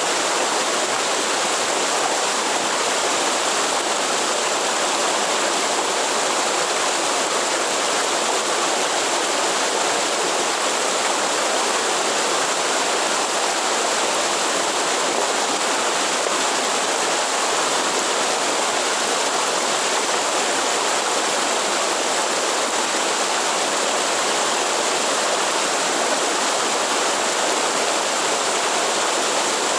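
Waterfall: water falling and rushing, a steady unbroken roar with no change.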